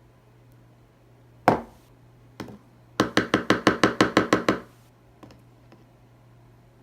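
A tablespoon rapped against a container to shake off caramel sauce: one sharp knock, a lighter one, then a quick run of about ten knocks lasting a second and a half.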